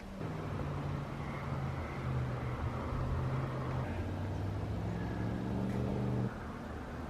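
A motor running with a steady low hum that steps in pitch a couple of times, then stops abruptly about six seconds in.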